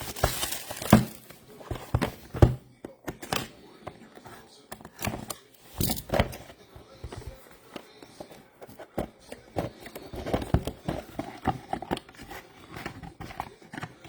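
Trading card packs and cards being handled on a table: foil wrappers crinkling and tearing, with irregular sharp clicks and taps of cards and card cases.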